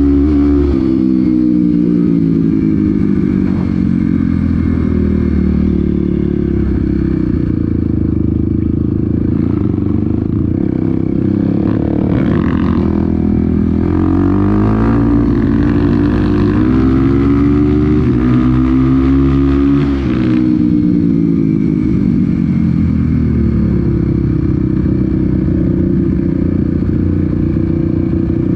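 Off-road motorcycle engine running under load, its pitch rising and falling again and again as the throttle opens and closes, with a clear drop about twenty seconds in.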